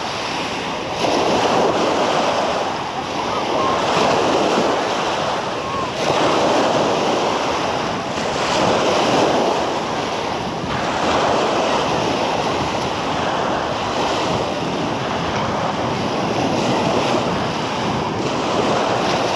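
Small sea waves washing onto a beach, the surf swelling and fading every two to three seconds, with wind buffeting the microphone.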